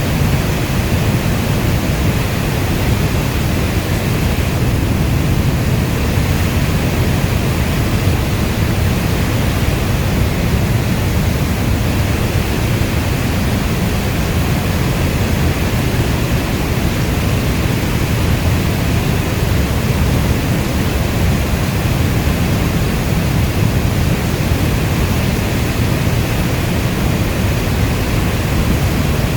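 Steady heavy rainstorm: a dense, unbroken hiss weighted toward a deep low rumble, with no single drops or thunder standing out.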